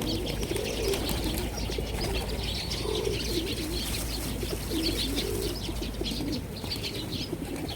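A flock of hungry birds calling while being fed, with repeated low wavering calls and many short high chirps overlapping throughout.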